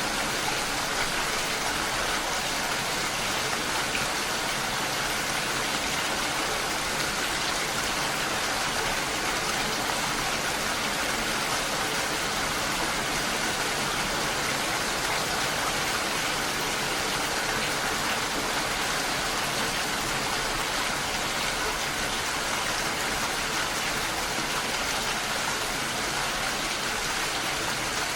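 Steady rain mixed with the rush of a waterfall, an even, unbroken hiss of falling water.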